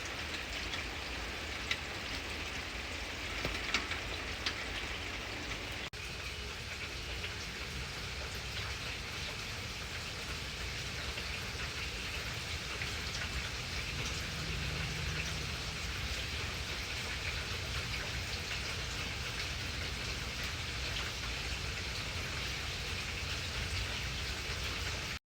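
Steady rain falling, with a few single drops ticking sharply in the first few seconds.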